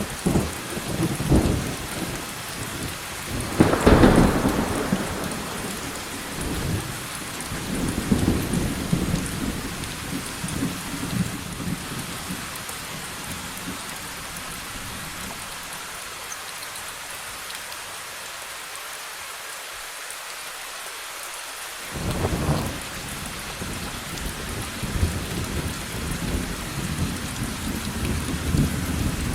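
Steady rain falling, with rolling thunder. A loud thunderclap about four seconds in is followed by rumbles that die away, then after a lull of several seconds another clap a little past twenty seconds sets off more rumbling toward the end.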